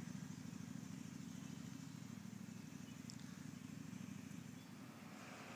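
Motorcycle engine running steadily and faintly, with a fast, even low pulsing.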